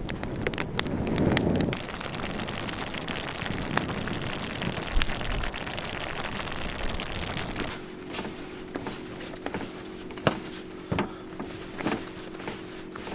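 Campfire crackling and popping over a steady rushing noise; from about eight seconds in it quietens and a low steady hum joins the scattered pops.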